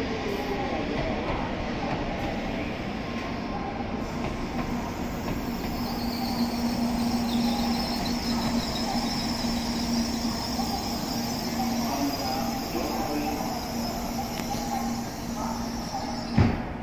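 N700A Shinkansen train rolling slowly into the platform as it arrives to stop. A steady high squeal and a low hum join its running noise about a third of the way in, and a sudden thump comes near the end.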